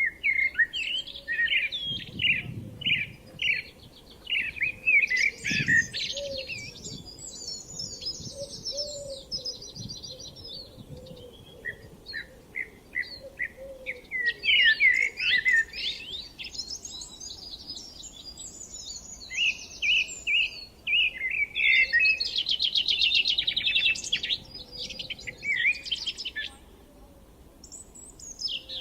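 Songbirds singing almost without pause: quick repeated chirps, sweeping notes and fast trilled phrases, with songs overlapping one another.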